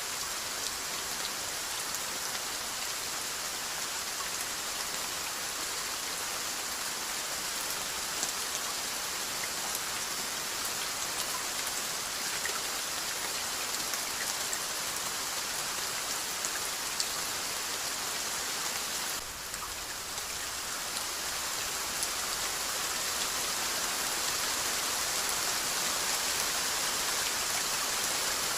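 Steady rainfall: a dense, even hiss of rain with scattered individual drop ticks. About two-thirds of the way through it dips for a moment and comes back slightly louder.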